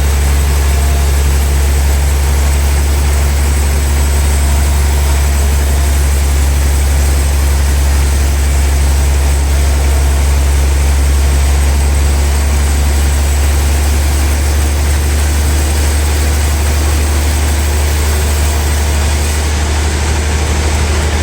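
Large log-sawing machinery at a sawmill running steadily, with a loud, deep, even hum and a wash of noise over it.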